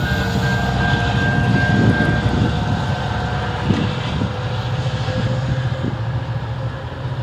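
Diesel locomotive engine running with a steady low drone. A pulsing high ringing tone fades away in the first couple of seconds.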